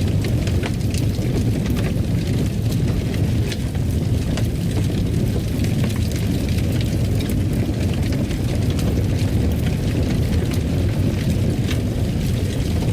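Fire crackling in a fireplace: a steady low rumble with frequent small pops and snaps.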